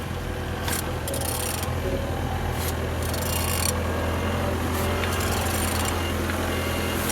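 Mercedes-Benz OM646 four-cylinder diesel engine being turned over by hand, with repeated rasping, rubbing strokes as it rotates. It turns freely.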